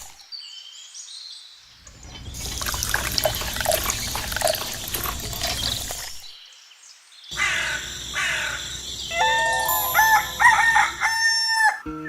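Separate sound clips cut together: a few seconds of noisy rushing, then near the end a long pitched bird call whose notes slide at their ends.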